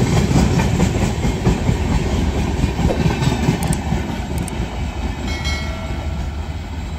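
Express passenger train's coaches rolling along the track with a heavy rumble and wheel clatter, gradually fading as the train moves away.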